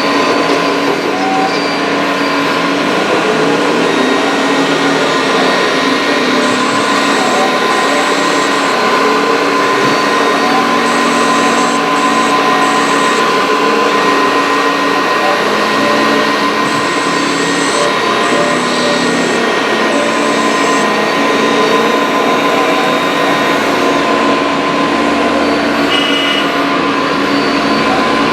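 Radio-controlled scale model excavators' electric hydraulic pumps and motors whining steadily, with a constant hum and short hissing bursts as the hydraulics work.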